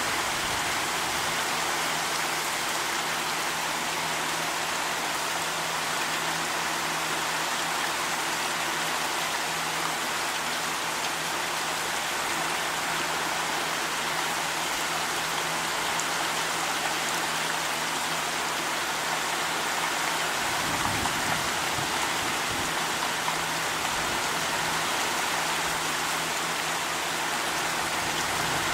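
Steady rain falling in a heavy, even hiss. A brief low rumble comes through about three quarters of the way in.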